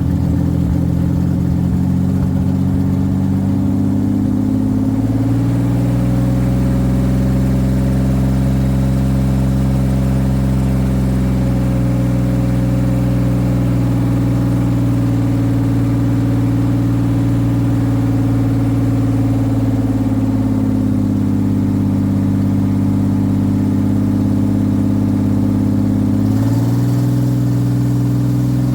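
2001 Oldsmobile Bravada's 4.3-litre V6 running with no oil, no coolant and no exhaust system, a loud continuous drone. Its speed shifts about five seconds in, again around twenty seconds, and once more sharply near the end.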